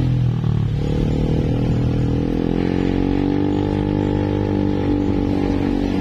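A vehicle engine running under steady load, its pitch rising within the first second and then holding with a slow climb.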